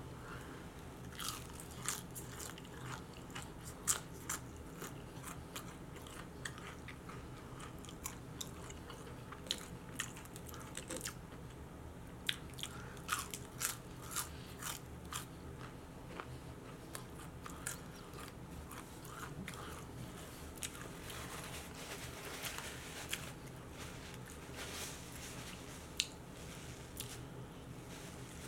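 Close-up crunching and chewing of crispy fried onion rings: many short, sharp crunches as he bites and chews.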